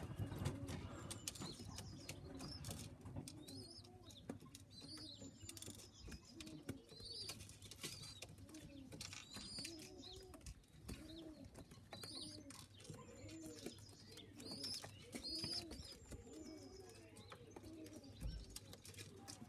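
Pigeons cooing: a steady run of soft, low rising-and-falling coos, with fainter high peeps and light clicks among them.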